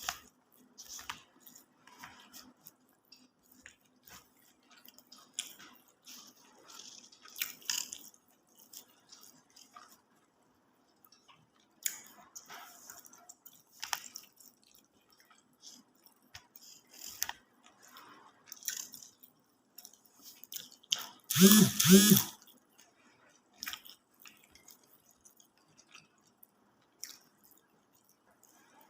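Close-miked eating of a nasi Padang meal: scattered small crunches, smacks and chewing sounds. About 21 seconds in comes one short, loud, pitched vocal sound lasting about a second.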